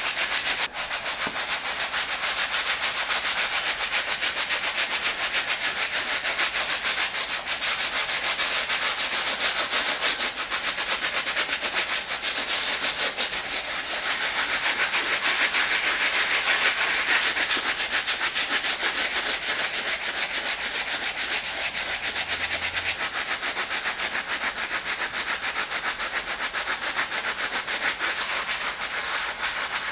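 Soft-bristle brush scrubbing a sneaker's upper with water and shoe-cleaning solution in a circular motion: a steady, rapid bristly scratching that goes on without a break.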